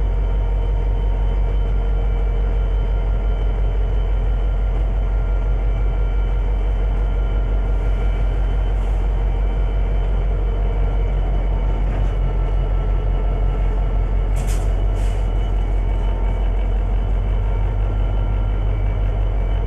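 Conrail diesel locomotive running steadily: a constant low drone with a fast, even pulse. Two short hisses of air close together about three-quarters of the way through.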